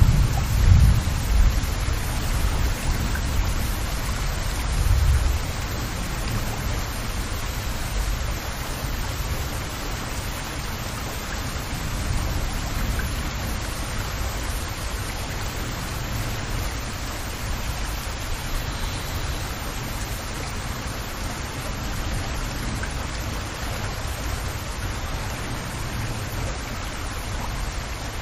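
Steady rain falling on open lake water, an even, continuous hiss of drops hitting the surface. A few low rumbles in the first five seconds.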